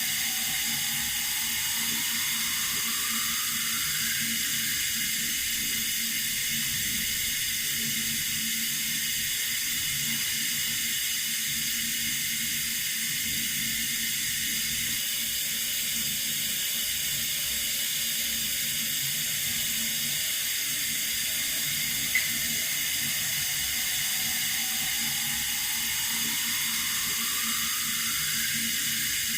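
Running water with a steady, even hiss that does not change. A faint rising tone sounds near the start and again near the end, and there is one brief click about three-quarters of the way through.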